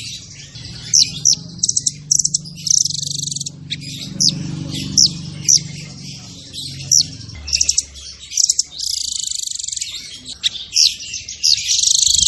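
Caged songbird singing a fast, dense song of sharp chirps, quick falling whistles and long buzzing trills, packed close together with almost no gaps.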